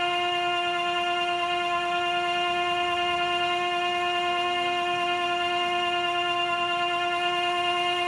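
A strange steady droning tone heard from behind a door: one unwavering pitch with overtones, held without a break.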